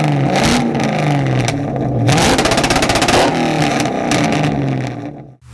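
Car engine revving up and down several times, its pitch rising and falling, then cutting off abruptly near the end.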